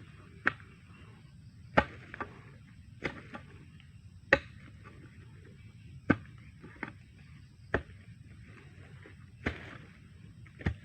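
Homemade digging tool striking the ground in repeated chopping blows, one sharp thud every one to two seconds, some followed by a lighter knock.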